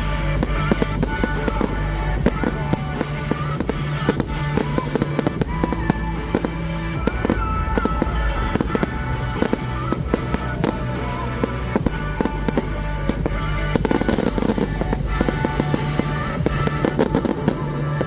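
Fireworks going off in rapid succession, a dense run of sharp bangs and crackles, over background music.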